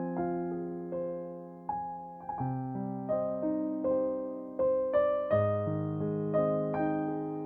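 Slow, gentle solo piano music: single notes and chords struck and left to ring and fade, a new note about every half second.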